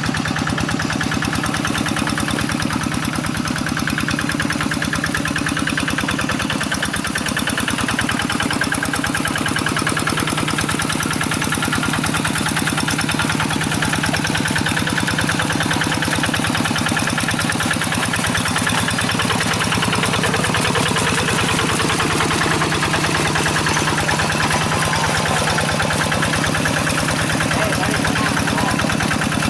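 Quick G1000 hand tractor's single-cylinder diesel engine running steadily, with a fast, even knock.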